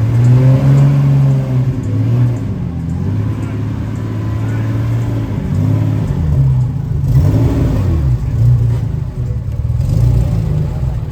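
Car engine running, its pitch rising and falling as it is revved, with a steadier hum in between.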